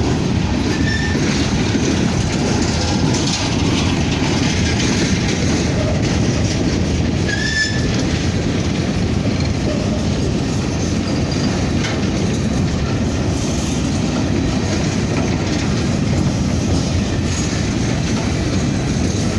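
Heavy grain train's freight cars rolling past close by: a steady, loud rumble of steel wheels on rail with clickety-clack over the rail joints and a couple of brief wheel squeals.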